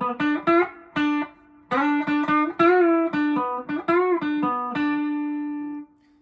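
PRS SE McCarty 594 electric guitar on its bridge humbucker, played through a Vox AC10 amp miked with a Shure SM57: a bright lead phrase of picked single notes with string bends, ending on a held note that rings for about a second and stops near the end.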